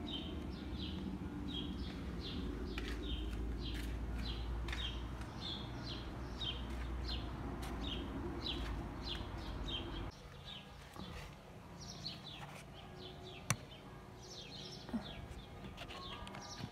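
A bird calling over and over in short falling chirps, about two a second. Under it a low rumble drops away about ten seconds in.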